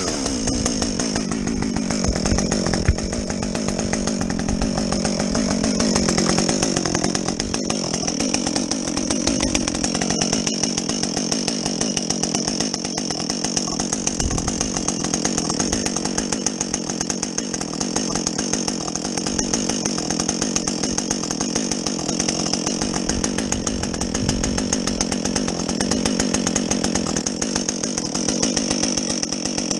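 Husqvarna 562XP two-stroke chainsaw with a modified muffler, running at high revs while cutting through a log. The pitch wavers and sags in the first ten seconds as the chain bites, then holds steady.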